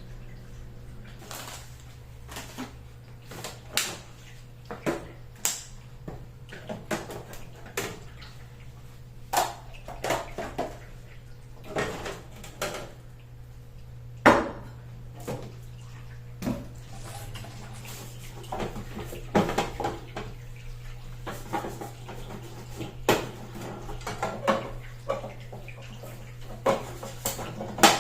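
Irregular clinks and knocks of dishes, jars and containers being handled and set down, over a steady low hum.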